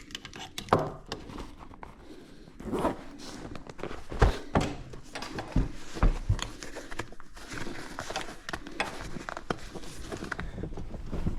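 Irregular knocks, clicks and rustling, like gear being handled or someone moving about.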